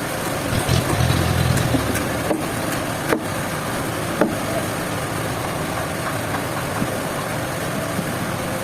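Sawmill machinery running steadily, with a few short sharp knocks.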